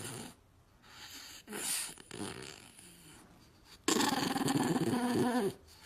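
A dog vocalizing in wavering, pitched sounds: a short one a second and a half in, then a loud, drawn-out one from about four seconds in that lasts about a second and a half.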